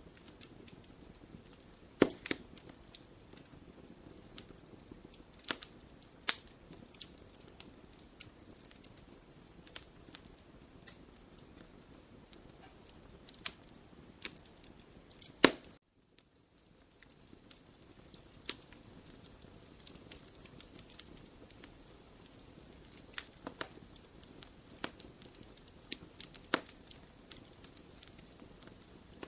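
Wood fire burning in a fireplace, crackling with irregular sharp pops over a faint steady hiss. The sound drops out for about a second a little past halfway.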